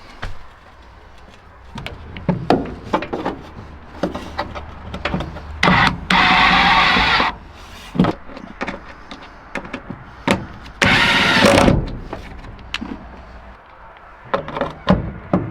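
Hand work on a truck door: a run of clicks and knocks from handling parts, with two hissing bursts of about a second each, around six and eleven seconds in.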